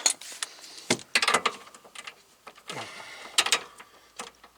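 Hand tools clicking and knocking in short, irregular bursts, with a cluster of clicks about a second in and another pair about three and a half seconds in, while they are handled at a car's rear suspension knuckle bolts.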